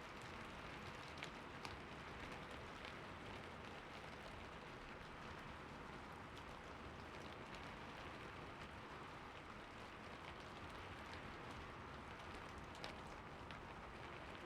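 Slow rain falling: a faint, steady hiss of rain with a few single drops ticking out now and then.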